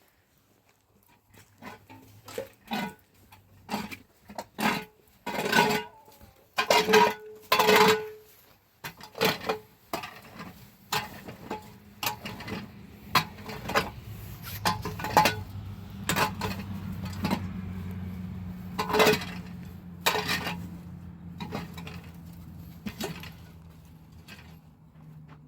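Irregular knocks and clinks of pots and dishes being handled and set down, some strikes ringing briefly. A low steady hum comes in about halfway through.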